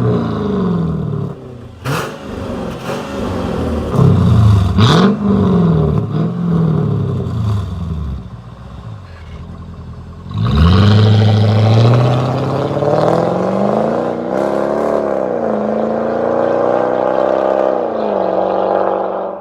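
Mercedes CL500's 5.0-litre V8 through an aftermarket valve-controlled sports exhaust, blipped several times with quick rising-and-falling revs and a few sharp cracks. About ten seconds in it comes in loud and holds a long rev whose pitch climbs, dips briefly, climbs again and drops off near the end.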